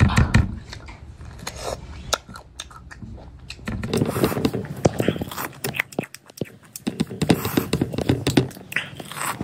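Close-miked eating of cooked mutton goat head: chewing, with many quick clicks and scrapes.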